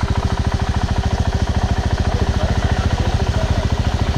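Off-road motorcycle engine idling close by, a steady, rapid, even beat.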